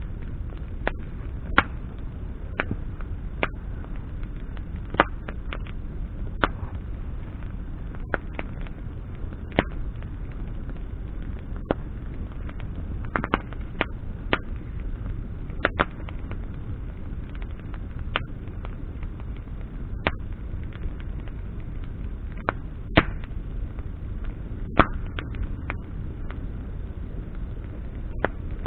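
Wood bonfire burning, crackling with sharp irregular pops about once a second over a steady low rumble.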